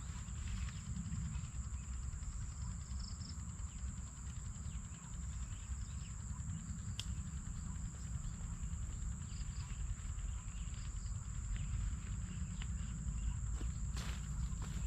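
Insects chirring in one steady high-pitched tone, over a constant low rumble, with a sharp click about seven seconds in and another near the end.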